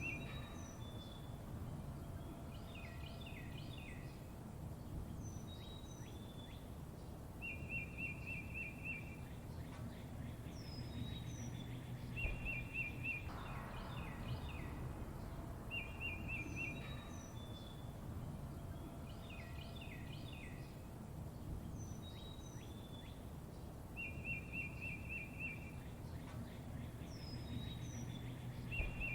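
Songbirds chirping: a rapid trill recurs every few seconds, mixed with clusters of short chirps and high whistled notes that slide downward, over a steady low background rumble.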